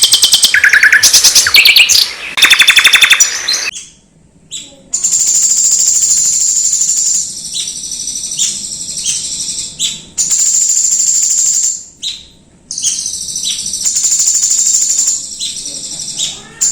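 High-pitched songbird song from a tutor recording for training white-rumped shamas (murai batu) to sing: a fast, rapid trill of repeated notes for the first few seconds, then long, steady, very high whistled notes of a second or two each, broken by short gaps.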